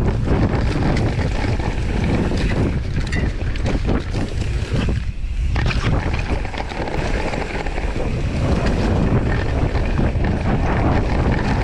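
Wind buffeting the microphone over the rumble and rattle of mountain bike tyres rolling fast on a dirt trail. The rumble briefly drops away about five seconds in.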